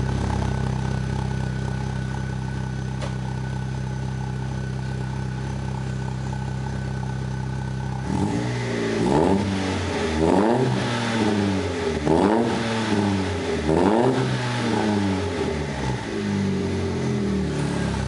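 Opel Corsa B exhaust with a glasspack and a Magnaflow performance muffler: the engine idles steadily, then about eight seconds in is blipped four times in quick succession, each rev rising and falling, before settling back to idle.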